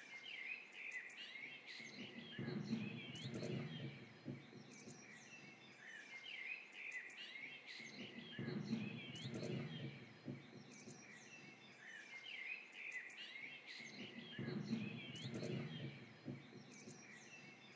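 Several birds chirping and twittering in quick, rising and falling calls, with a soft swell of low rushing noise about every six seconds.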